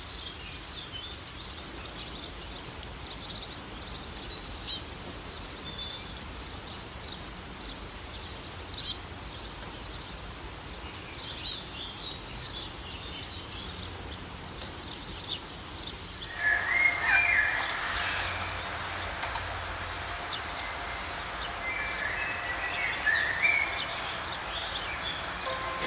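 Several wild birds chirping and trilling over a steady outdoor hiss, with a few louder sharp chirp clusters. About two-thirds of the way through, the soundscape changes abruptly to a busier chattering of birds lower in pitch.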